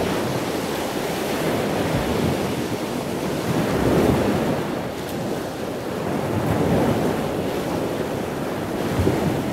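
Ocean surf: a steady rush of waves that swells and ebbs, loudest about four seconds in and again near seven seconds.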